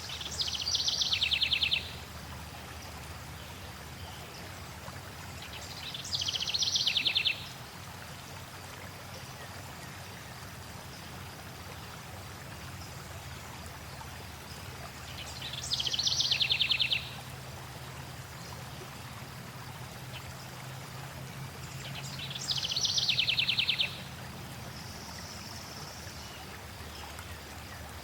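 A songbird singing the same fast, pulsing trill that falls in pitch, four times several seconds apart, over a steady rush of flowing water.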